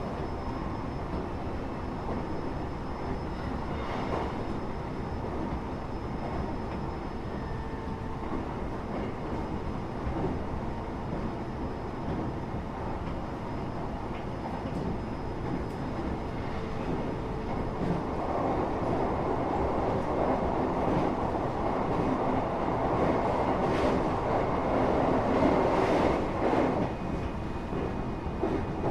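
Running noise heard inside a Japanese passenger train in motion: a steady rumble of wheels on rail under a faint steady hum. The noise grows louder about two-thirds of the way through and eases again near the end.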